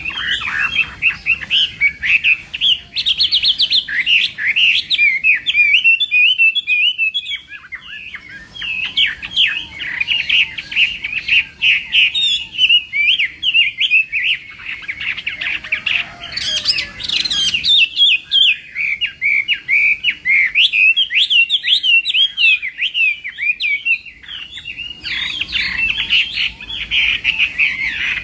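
Chinese hwamei (melodious laughingthrush) singing a long run of rapid, varied whistled phrases, with brief pauses about a quarter of the way in and again near the end.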